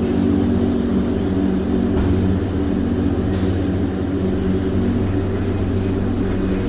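A large machine running at a constant speed with a steady, unchanging low drone.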